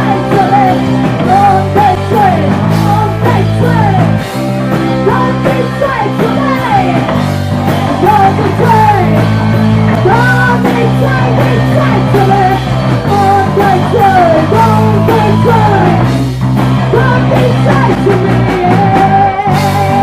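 Punk rock band playing live and loud: distorted guitar, bass and drums, with a lead guitar line bending over chords that change every second or two.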